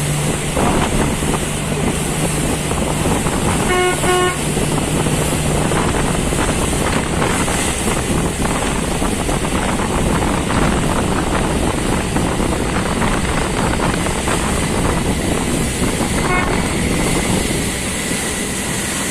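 Steady engine rumble with noise across the range, and a short horn toot about four seconds in. A fainter toot comes near the end.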